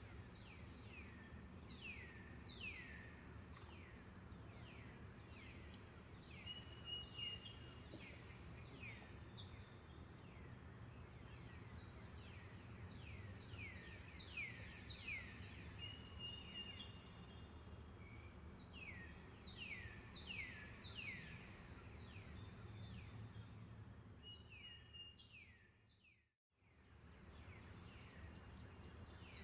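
Forest birds singing: many short notes sliding downward, coming one after another every half-second or so, over a steady high-pitched drone and a low even rush of flowing water. About 26 seconds in everything fades out briefly and fades back in.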